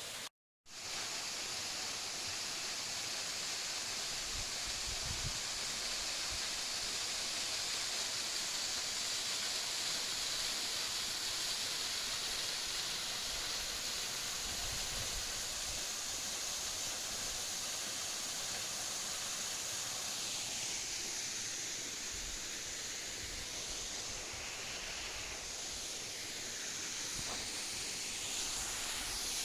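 Steady rush of flowing water, the noise of a waterfall or fast stream, with a brief dropout to silence about half a second in.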